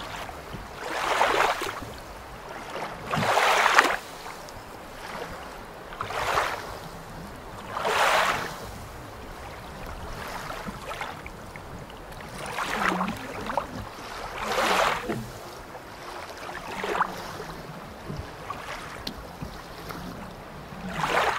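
Water sloshing and washing against the camera, which is dipped in murky water, in irregular surges about once every two seconds.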